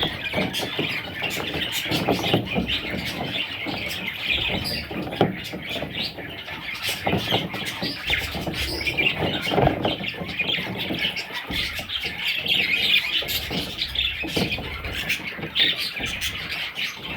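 Budgerigar chicks calling: a continuous, raspy chattering with many scattered short clicks.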